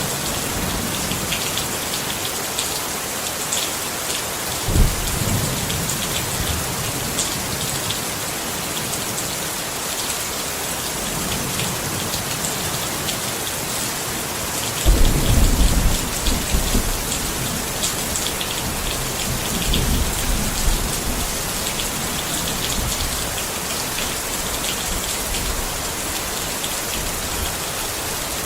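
Rain falling steadily on a tent, an even hiss of many drops. Low rumbles of thunder rise through it about five seconds in and again, longer and louder, about halfway through.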